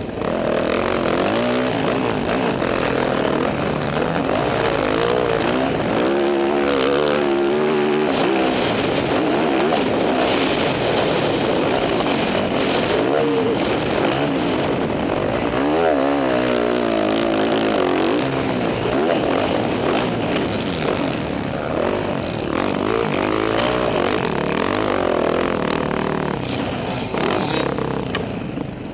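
Dirt bike engine revving hard on a motocross ride, its pitch climbing and dropping again and again as the throttle opens and closes.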